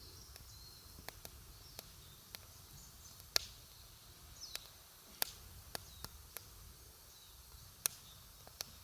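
Campfire wood crackling: irregular sharp pops and snaps over a soft steady hiss, with two louder snaps, about a third of the way in and near the end.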